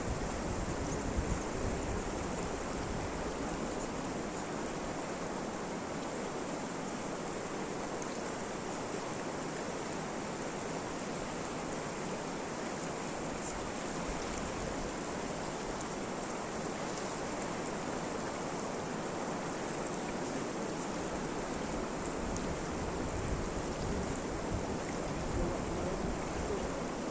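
Steady rain falling, an even, unbroken hiss, with wind buffeting the microphone near the start and again near the end.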